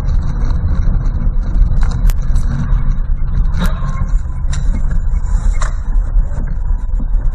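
Motor vehicle on the road: steady low engine and road rumble, with several sharp clicks or knocks scattered through it.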